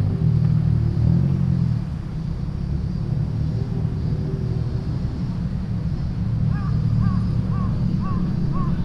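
Car engines idling and rumbling low as cars roll out. About two-thirds of the way in, a short high chirp starts repeating about twice a second.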